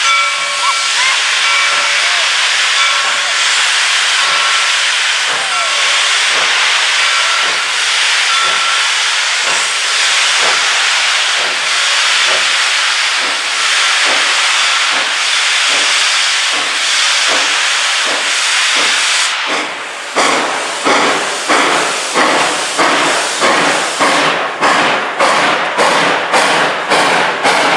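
Steam locomotive blowing a loud, steady hiss of steam with faint regular beats under it. About twenty seconds in, its exhaust breaks into crisp chuffs that quicken from roughly two a second as it gets under way.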